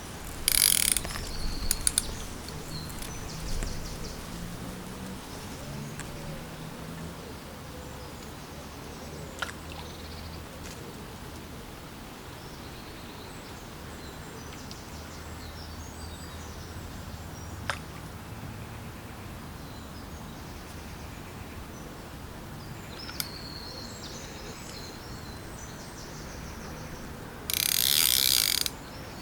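Fishing reel being wound in two short bursts of rapid ratchety clicking, each about a second long, one right at the start and one near the end, with a few single clicks in between.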